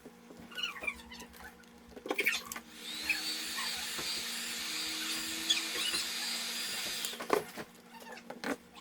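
Hot-air gun blowing for about four seconds: a steady rush of air with a high whine that rises as it starts and then holds, as used to soften the adhesive when taking off an iPad screen. Short clicks before and after it.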